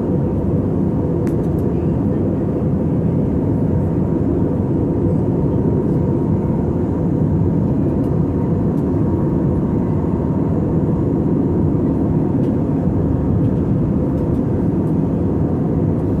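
Steady cabin roar of an Airbus A320 in flight: jet engine and airflow noise heard from inside the passenger cabin, even and unbroken, with a faint steady whine.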